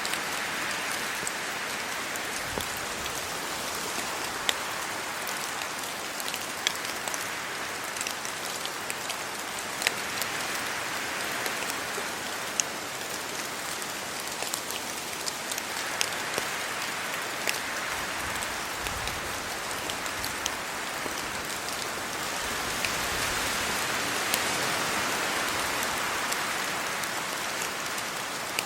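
Steady rain falling on trees and leaves, with many sharp drops striking close by. The hiss swells and eases several times.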